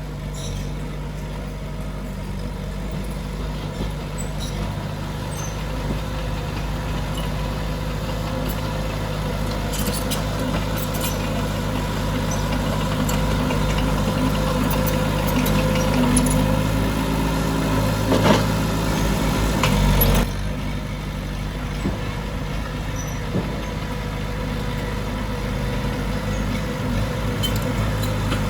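Heavy diesel engine of earthmoving machinery running steadily under work, gradually getting louder, with a few clanks and rattles about two-thirds of the way in, then easing off suddenly.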